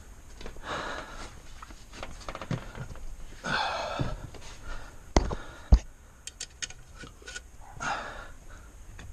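A man breathing heavily: three long, loud breaths a few seconds apart, the breathing of someone straining at work. About halfway through come two sharp knocks half a second apart, the loudest sounds, then a few light clicks.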